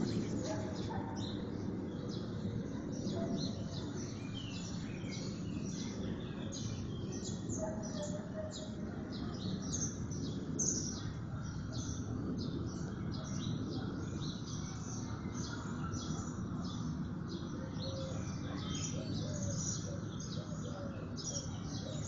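Many small birds chirping in a dense, continuous chorus of short, rapid high notes, over a low steady background hum.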